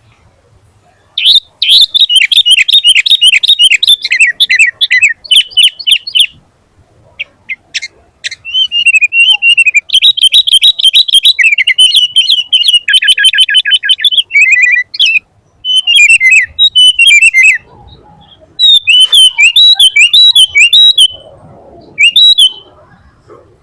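Sooty-headed bulbul singing vigorously. Its song comes in about five loud runs of fast, whistled notes that bend in pitch, with short pauses between them.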